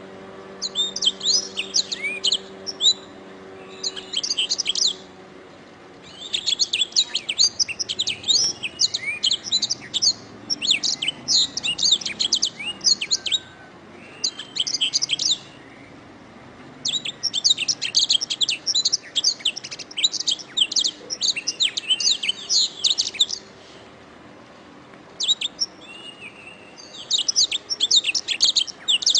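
Domestic canary singing: fast, rolling high-pitched trills and chirps in phrases several seconds long, broken by short pauses of a second or two.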